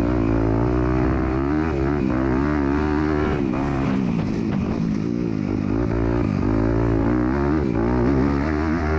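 MX2 motocross bike engine, heard up close from the bike, revving hard and falling back again and again as the rider works the throttle and shifts through the corners and jumps of the track.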